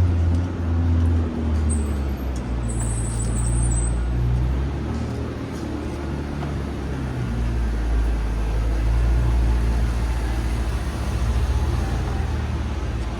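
City street ambience dominated by a deep low rumble, with a brief high thin whine about two seconds in.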